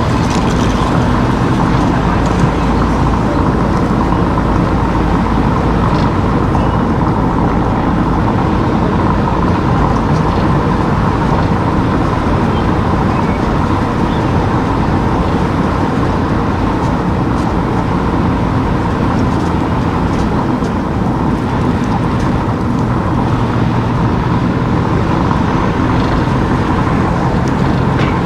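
A car driving on town streets: steady engine and tyre noise.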